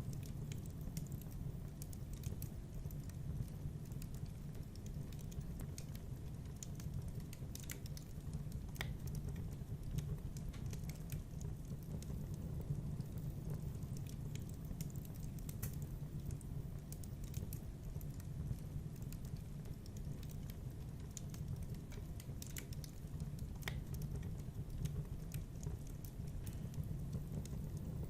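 Wood fire burning in a fireplace: a steady low rumble with irregular small crackles and pops scattered through.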